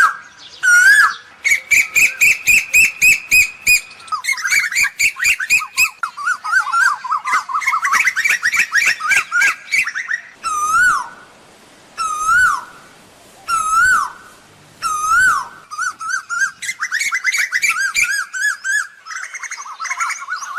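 Asian koel calling: loud whistled notes that rise and then drop, given singly about a second and a half apart, alternating with quick runs of short sharp notes, several a second.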